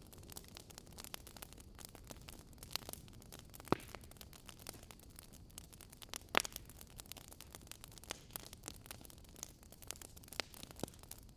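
Wood fire crackling, with irregular small pops and two louder snaps near the middle, over a faint low hiss.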